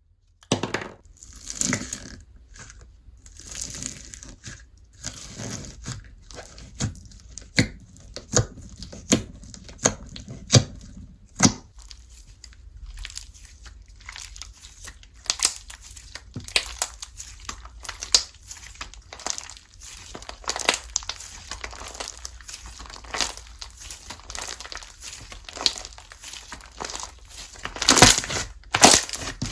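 Slime being squeezed, stretched and poked by hand, giving irregular sharp pops and crackling, with a louder cluster of pops near the end.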